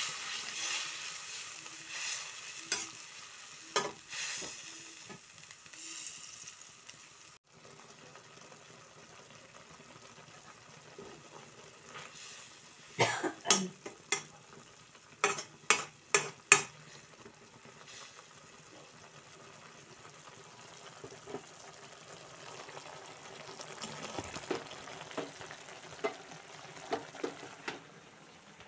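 Spinach and fenugreek leaves frying in oil in a metal wok, sizzling steadily while a steel slotted spoon stirs them. The sizzle is livelier at first and quieter later. About halfway through comes a run of sharp metal knocks as the spoon scrapes and taps against the pan.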